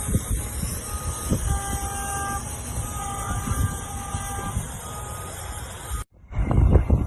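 Car horn sounding in a few blasts over steady road and engine rumble from a vehicle on the move. The sound cuts out briefly near the end, then louder rumble follows.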